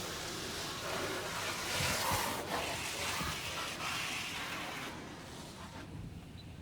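A Washworld High Velocity touchless car wash gantry working over the car, heard from inside the cabin as a rushing hiss. The hiss swells to its loudest about two seconds in and fades after about five seconds.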